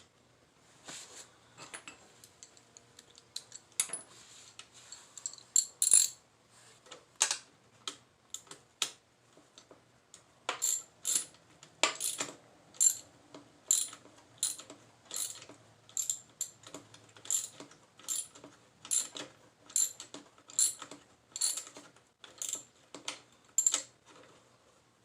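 Hand tools clicking and clinking on metal during brake work on a motorcycle. The clicks are scattered at first, then from about ten seconds in they come steadily, roughly three every two seconds, as a ratchet or wrench is worked stroke by stroke.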